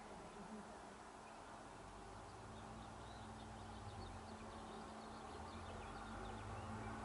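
Faint outdoor ambience: a bird chirping in quick, short notes from about two seconds in, over a low steady hum that starts at about the same time.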